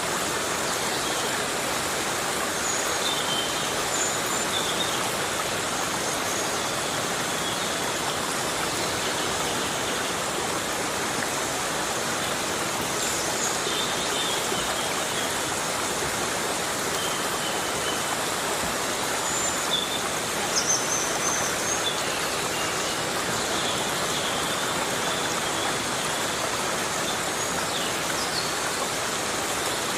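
Steady heavy rain falling on forest foliage: a dense, even hiss, with a few short high chirps scattered through it.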